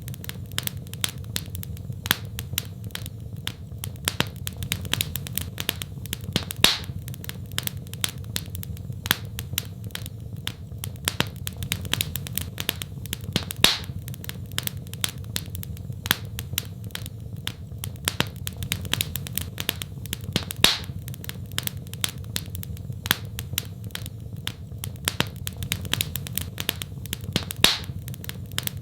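Wood fire in a fireplace crackling, with many small pops and snaps over a steady low rumble and a louder pop about every seven seconds.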